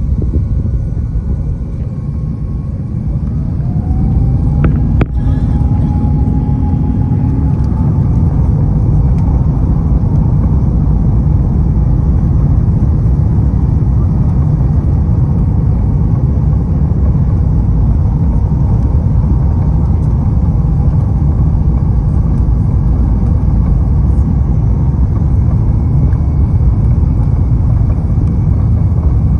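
Airbus A350-900's Rolls-Royce Trent XWB engines spooling up to takeoff thrust: a whine rises in pitch and levels off over a deep rumble that grows louder about four seconds in. This gives way to the steady loud rumble of the takeoff roll heard inside the cabin, with a single sharp click about five seconds in.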